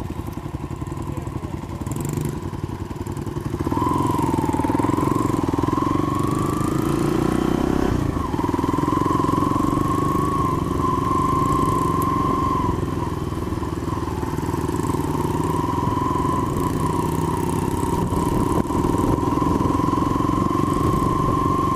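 Small single-cylinder off-road motorbike engine running under throttle. It gets louder and its pitch climbs about four seconds in, wavers briefly, then holds a steady note at riding speed, easing off slightly midway.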